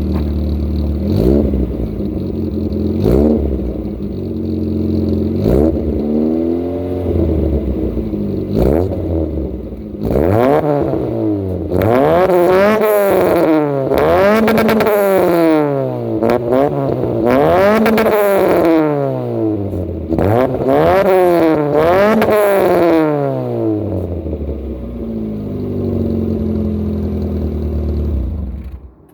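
Corsa B 1.4 four-cylinder petrol engine breathing through an aftermarket Bosal branch manifold and custom exhaust with a small tail silencer, idling and being revved. First come a few single blips of the throttle, then a run of quick revs one after another for about fourteen seconds, before it settles back to idle and cuts off.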